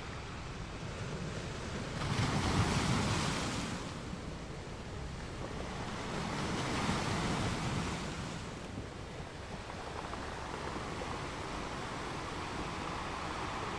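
Sea waves washing in, two swells of surf about four seconds apart, over a steady low rumble of wind and water.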